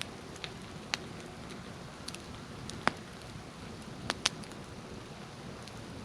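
Small wood campfire burning, crackling with a few sharp pops over a steady hiss.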